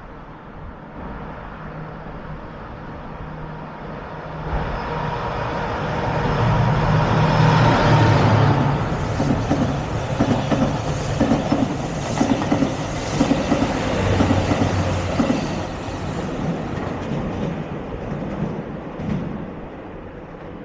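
A train passing through a station: its running noise builds to a peak, then the wheels clack steadily over the rail joints before it fades away.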